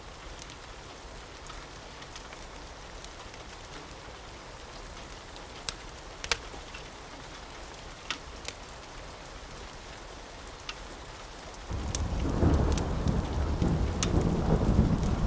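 Steady rainfall with scattered sharp ticks, then about twelve seconds in a sudden loud, low rumble of thunder that keeps rolling.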